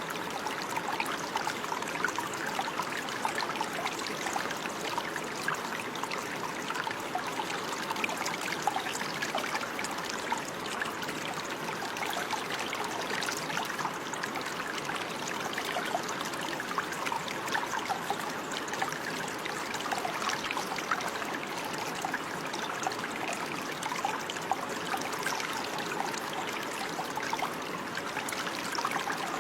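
Running water, a small stream trickling and burbling steadily over stones, with constant little splashes.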